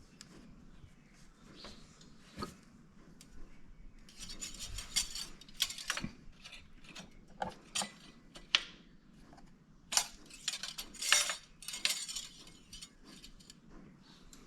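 Irregular light clinks, clicks and short rattles of hard objects being handled, heaviest in the middle of the stretch. No engine is running.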